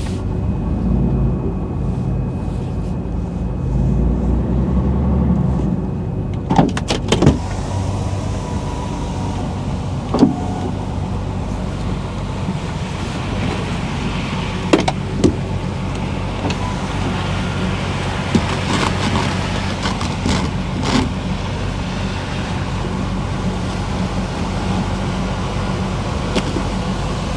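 Truck's diesel engine running with a steady low drone, broken by several sharp clicks and knocks: a quick cluster about a quarter of the way in, then single knocks scattered through the middle.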